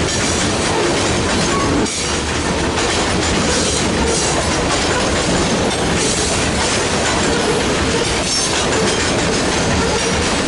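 Train cars rolling past, steel wheels clacking over rail joints in a continuous rumble.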